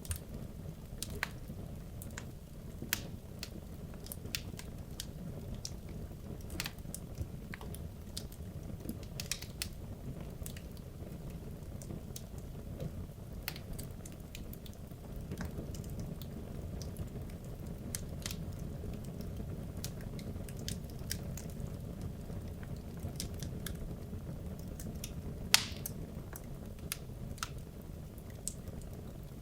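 Wood logs burning in a fireplace: irregular sharp crackles and pops over a steady low rush of the flames, with one louder pop near the end.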